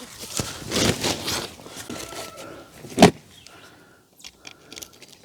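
Handling noises: scraping and rustling, one sharp knock about three seconds in, and a few light clicks near the end.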